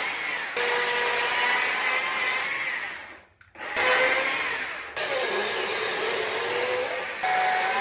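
Power carving tool cutting into wood, a loud steady whine heard in several short edited bursts that start and stop abruptly, with a brief gap about three seconds in.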